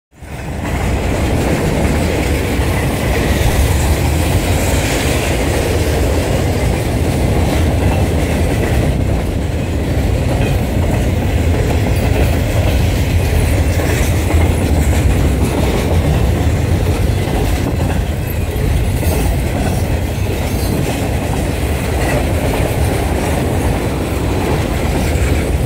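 Freight train of loaded flatcars rolling past at close range: a steady low rumble of steel wheels on the rails with some clickety-clack over the rail joints.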